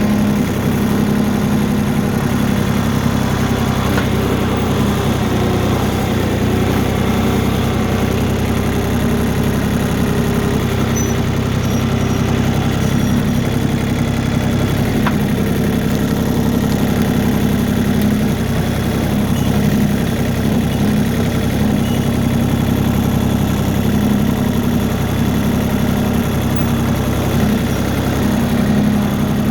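Tractor engine running steadily with an even, unbroken hum.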